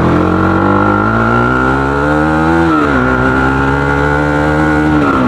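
Bajaj Pulsar AS200's single-cylinder engine running through an aftermarket KTM Duke 250 exhaust, revving up under load: its pitch climbs, falls away about three seconds in, then pulls again and drops near the end.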